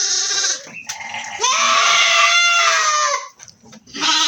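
Goats bleating: three calls, a short one at the start, a long one of about two seconds in the middle, and another beginning near the end, from goats being held for injections.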